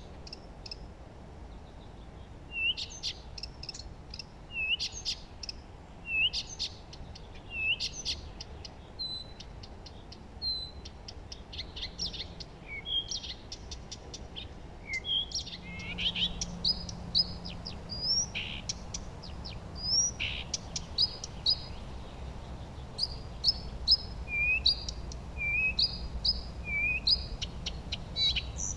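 Several songbirds singing and chirping with short high notes. One bird repeats a curling phrase every second or so early on, and quicker trills of high notes come in from about halfway.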